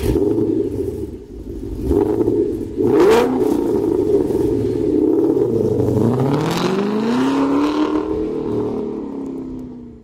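Car engine revving, with a couple of sharp hits about two and three seconds in. Its pitch dips and then climbs in one long rev from about six seconds in, then fades out.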